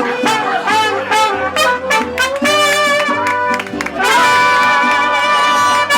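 Latin dance music in an instrumental break: a brass section of trumpets and trombones plays short phrases over a steady bass line, then holds a long chord for about the last two seconds.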